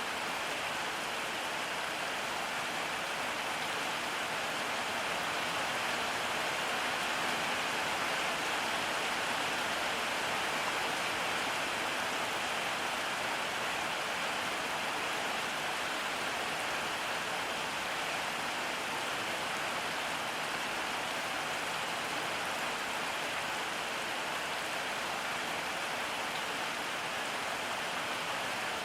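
Steady rain falling, a constant hiss of drops on surfaces.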